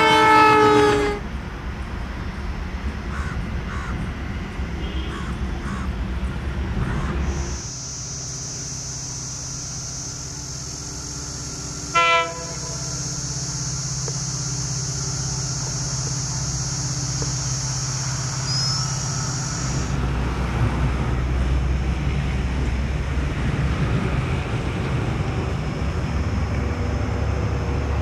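Indian Railways trains at the trackside: a horn dies away about a second in, then a train runs with a steady low rumble, with one very short horn toot near the middle. A steady high-pitched drone runs alongside for a stretch in the middle before cutting off.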